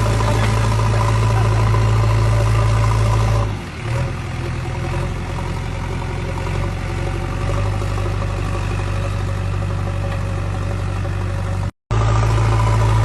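Diesel engine of a JCB backhoe loader running steadily with a low drone. The sound changes abruptly about three and a half seconds in and drops out completely for a moment near the end, then resumes.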